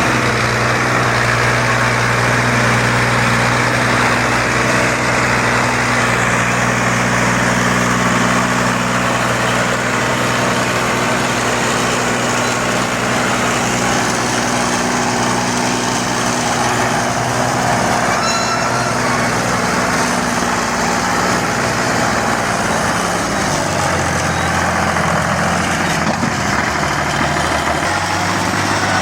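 Fiat 480 tractor's diesel engine running steadily, its pitch shifting in steps and dropping lower about three-quarters of the way through.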